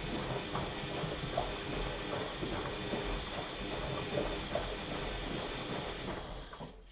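Washing machine in its wash cycle: the drum turns with a steady motor hum while water and laundry slosh and knock irregularly. Near the end the drum stops and the sound falls away quickly.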